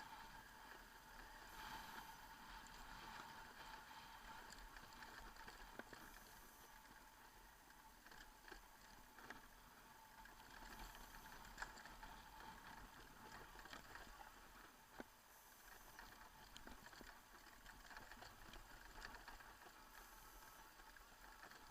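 Near silence: faint background noise with a few soft clicks.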